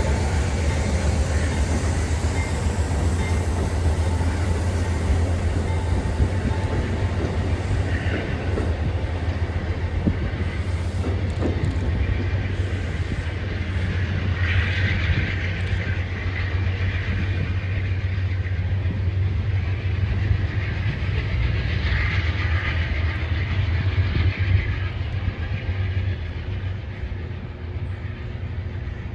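Passenger train running through the station: a steady low rumble with wheels clattering over the rails, twice broken by brief higher-pitched squeals, easing off near the end.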